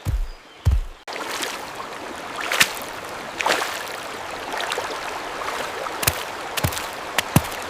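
A deep low thump, then about a second in an abrupt cut to a steady rushing ambience like a flowing stream, with scattered sharp clicks and taps over it.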